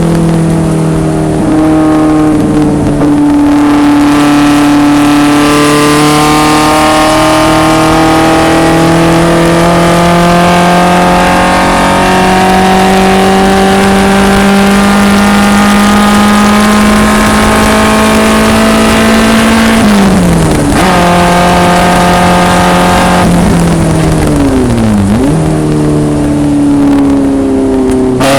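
1974 BMW 2002 race car's engine under hard acceleration, its pitch climbing slowly for about twenty seconds. The revs drop sharply about twenty seconds in, then fall again and dip and rise quickly about twenty-five seconds in, before running steady near the end.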